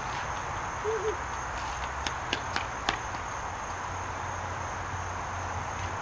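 Outdoor ambience: a steady high-pitched insect drone, with a few faint light clicks about two to three seconds in.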